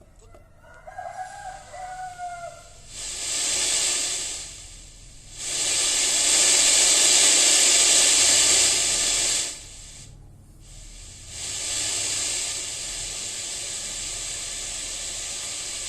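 Spray hissing in three long bursts, the middle one the longest and loudest, after a brief pitched sound about a second in.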